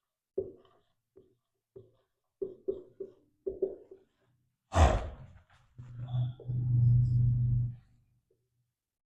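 Several soft taps, then a man's loud breathy burst a little before halfway, followed by a low voiced hum lasting about two seconds, like a throat-clear.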